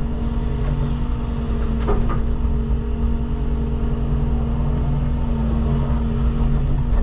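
Wheeled excavator's diesel engine running steadily while it loads soil, with a few short knocks, the clearest about two seconds in.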